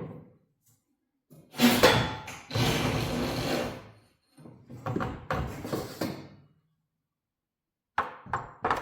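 Metal scraping and rattling as the pieces of a broken garage door torsion spring are worked along and off the steel torsion bar, in two long stretches, then a few sharp knocks near the end.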